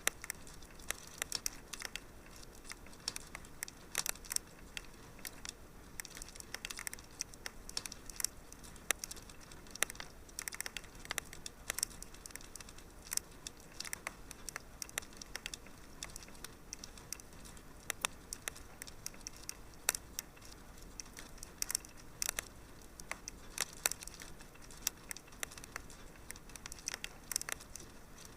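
Wood fire in a fireplace crackling: many irregular sharp pops and snaps over a soft steady hiss.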